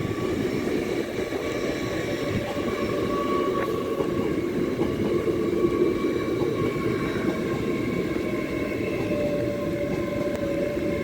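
LNER Class 801 Azuma electric train running, a steady rail noise that swells in the first second and then holds, with faint steady whines from its traction equipment above it.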